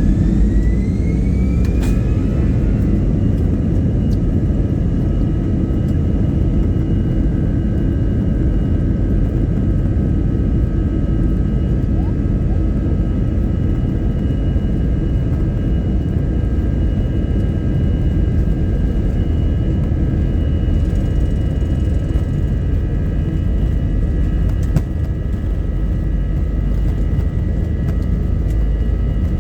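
Jet airliner's engines spooling up to takeoff power: a whine rises over the first couple of seconds, then holds as steady high tones over a heavy, even rumble.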